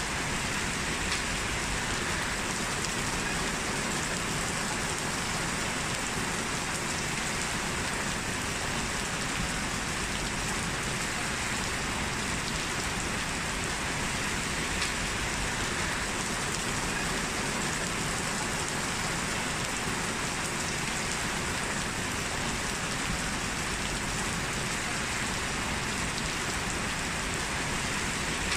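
Steady rain falling and pattering on surfaces, an even unbroken hiss with a few faint drop ticks.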